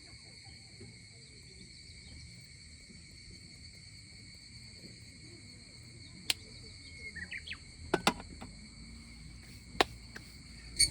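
Insects droning steadily in a high, even chorus. A few sharp knocks or clicks stand out over it in the second half: one, then a quick pair, then another.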